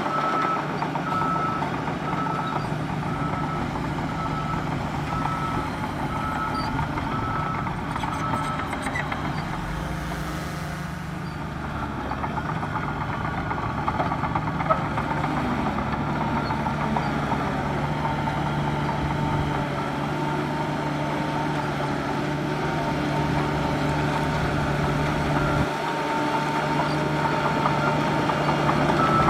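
Heavy diesel engines of a bulldozer and dump trucks running steadily. A reversing alarm beeps about twice a second for the first third, stops, then starts again at the very end.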